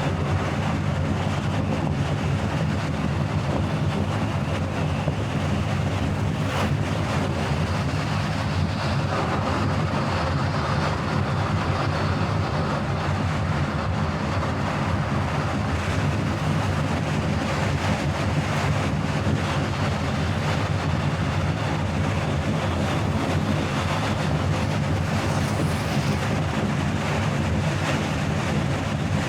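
Steady road and engine noise of a moving car, a constant low rumble with a hiss above it.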